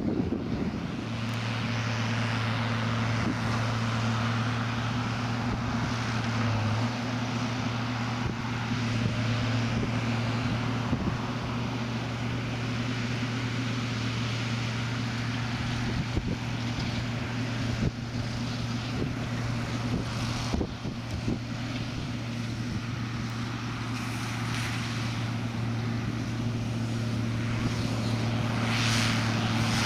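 Tractor engine running at steady revs, its hum unchanging throughout.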